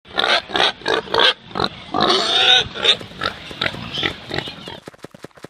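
Pigs grunting and squealing in irregular loud calls, one longer squeal about two seconds in, then a quicker, quieter run of short grunts near the end.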